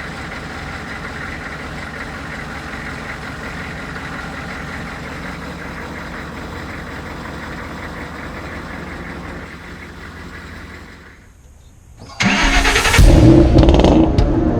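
A Humvee's V8 diesel engine running steadily with a low, even throb, fading away after about ten seconds. About 12 seconds in, loud music starts abruptly.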